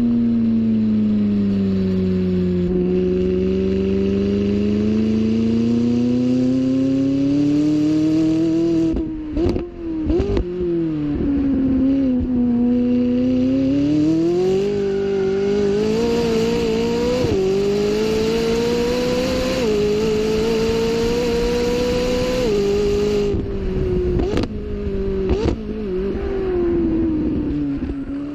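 McLaren 675LT's twin-turbocharged V8 running hard on track, its note sliding down as the car slows, then climbing and falling again through the gears with a few abrupt jumps in pitch. A handful of sharp cracks come near the middle and again near the end.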